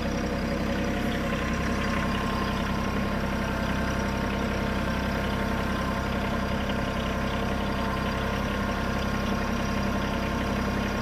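Bad Boy 3026H compact diesel tractor's engine running steadily at an even pace while hauling a heavy load of logs on its front forks.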